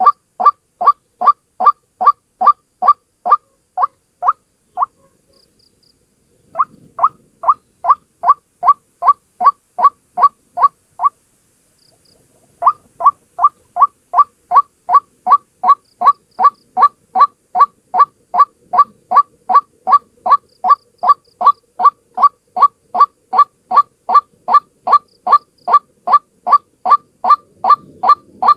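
A single white-breasted waterhen calling, a loud, steady run of short, evenly spaced notes at about two and a half a second. The run breaks off twice briefly, about five and eleven seconds in, then resumes.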